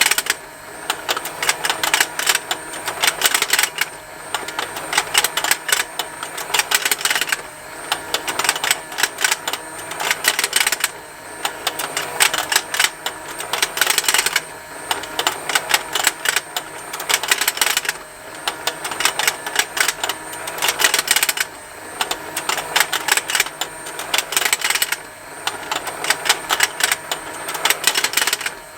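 Plastic fishing-lake toy running: rapid continuous ticking from its motor-driven rotating pond and snapping plastic fish, over a faint motor whine, getting louder in stretches about every three and a half seconds.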